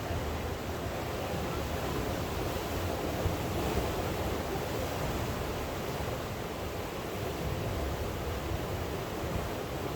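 Steady, even wash of sea waves and falling rain.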